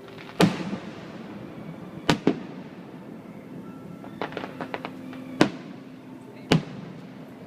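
Fireworks bursting: five sharp booms, one about half a second in, a quick double about two seconds in, and two more near the end, with a quick run of smaller pops between about four and five seconds in.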